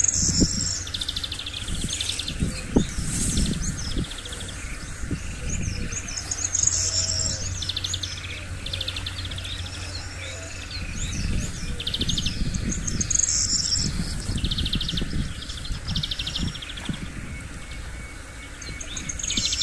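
Small birds chirping and giving short buzzy trills again and again, about one every second or two, over low rustling and a few soft knocks from onion plants being handled close by.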